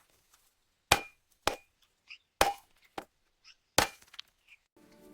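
Eggshell cracking open as a chick hatches: about five sharp cracks over four seconds, with faint high squeaks between them. Music starts near the end.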